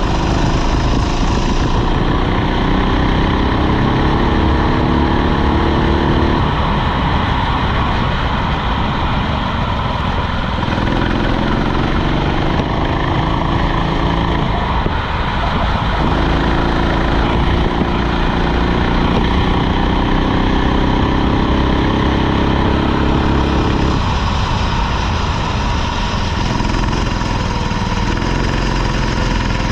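Rental kart engine at racing speed, its pitch climbing in long runs as it accelerates and dropping back when the throttle comes off, about three times.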